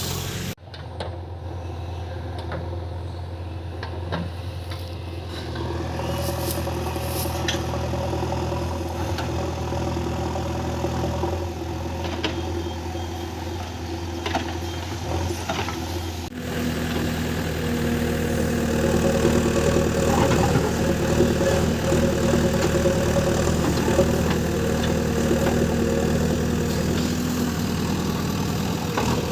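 JCB 3DX backhoe loader's diesel engine running steadily, with a few short knocks. The sound changes abruptly about half a second in and again about halfway, after which the engine runs louder.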